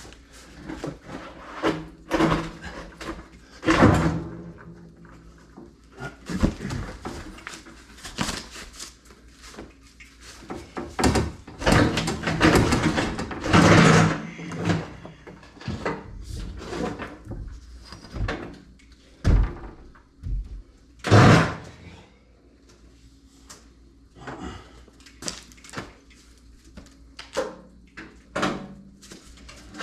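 Irregular knocks, clunks and scraping from tools and parts being handled during a water heater install, with the loudest clunks about 4, 13 and 21 seconds in.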